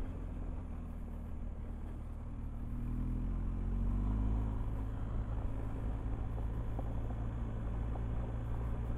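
Motorcycle engine running under way, its pitch rising about three seconds in as it speeds up, then settling at a steady note.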